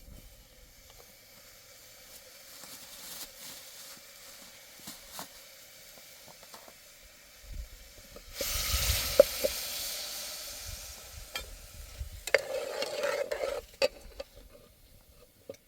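Food frying in a hot pan: a loud sizzle starts suddenly about eight seconds in and slowly fades, with scattered clinks of stirring, and a second shorter burst of sizzling near the end.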